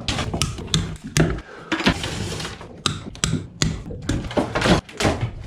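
Irregular knocks, thuds and clattering of interior demolition work: old panels and debris being pulled loose and handled in a boat cabin, a dozen or more sharp hits in quick, uneven succession.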